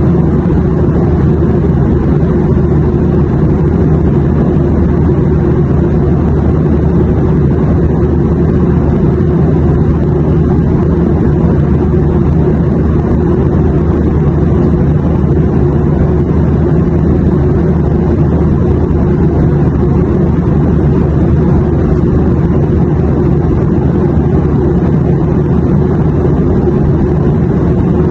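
Airplane cabin noise: a steady, unchanging low rumble of engines and airflow, with no events in it.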